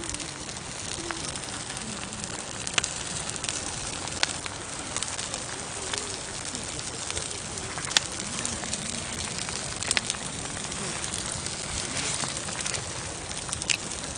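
Campfire burning: a steady hiss of flames with sharp crackles and pops of the wood every second or two.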